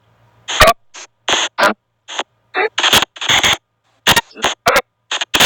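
Spirit box (ghost box) app playing through a phone speaker: short, choppy bursts of white noise and clipped voice-like fragments, cutting in and out several times a second with silent gaps between.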